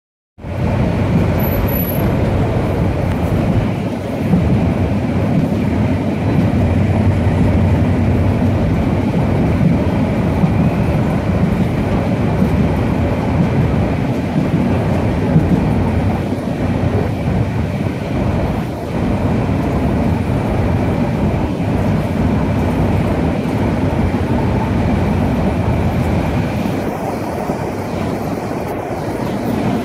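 Passenger train running at speed, heard from an open carriage door: a steady, loud rumble of wheels on the track.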